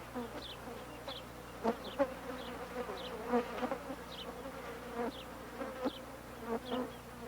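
Bush flies buzzing around cattle dung, a steady drone, with a short high chirp about once a second.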